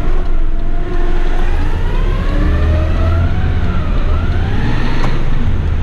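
Heavy rigid truck's diesel engine running under load as the truck pulls away, a low rumble with an engine note that rises, dips about four seconds in as the gear changes, then rises and falls again.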